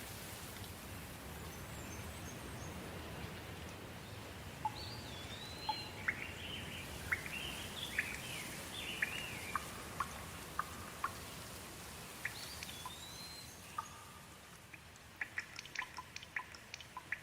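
Steady soft rain with birds calling over it: whistled notes that rise and fall, and a flurry of chirps between about five and thirteen seconds in. Near the end the rain grows a little fainter, and a run of sharp ticks comes in.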